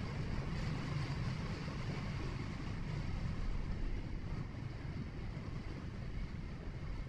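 Steady rumble of a vehicle driving along a road: engine and tyre noise, heaviest in the low end.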